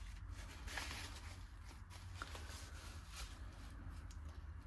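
Faint scratchy rustles and light taps of watercolour work on paper, brush or tissue against the sheet, over a low steady hum.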